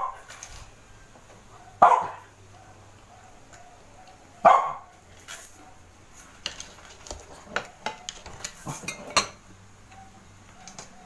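A dog barking: three single barks a couple of seconds apart in the first half, the loudest sounds here. Later, a run of light clinks from glass dishes and cutlery being handled.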